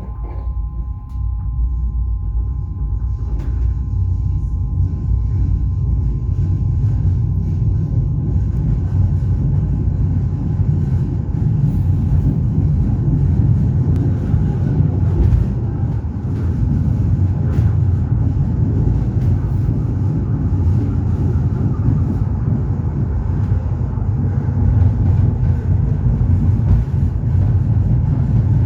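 Passenger train running, heard from aboard: a steady, heavy rumble of wheels and running gear that builds over the first few seconds, then holds, with faint clicks over it.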